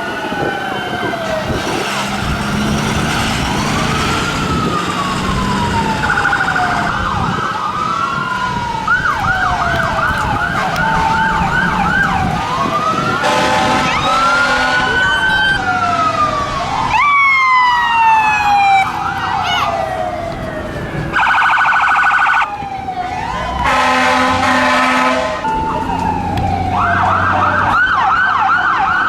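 Emergency vehicle sirens sounding together as a parade of fire trucks and police cars passes. Slow rising and falling wails overlap with spells of fast yelping, over the rumble of the trucks. A loud horn blast of about a second and a half comes about two-thirds of the way through, with a few shorter ones around it.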